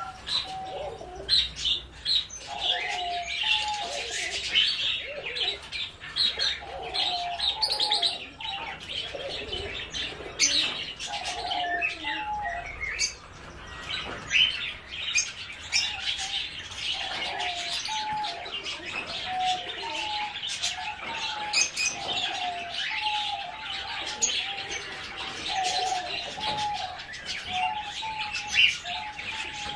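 Many birds calling at once: continuous high chirping, with a lower call repeating every second or so.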